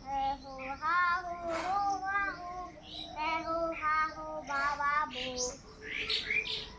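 A high, child-like voice singing a short melody in gliding phrases. It stops about five and a half seconds in, leaving fainter high sounds.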